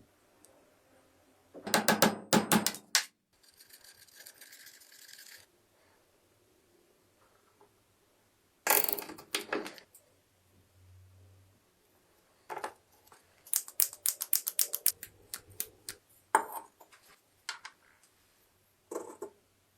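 Several bursts of rapid mechanical clicking and clatter, like hand tools and small metal parts being worked. There is a softer, hiss-like stretch between about three and five seconds in.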